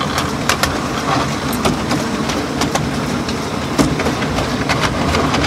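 Riding in a moving small railway carriage: a steady running rumble with irregular sharp clicks of the wheels over the rail joints.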